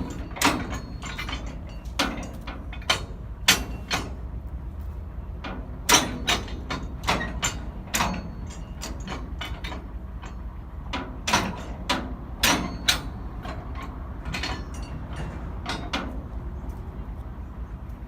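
Steady low rumble of an idling diesel switcher locomotive, with irregular sharp metallic knocks and clanks, about fifteen of them, spread through the stretch.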